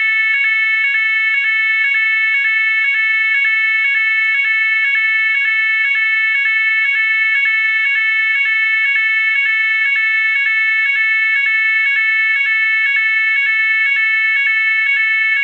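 GE AS363 electronic fire alarm sounder sounding the NFS 32001 French fire alarm tone, a buzzy two-pitch tone alternating between 554 Hz and 440 Hz over and over. It cuts off suddenly near the end.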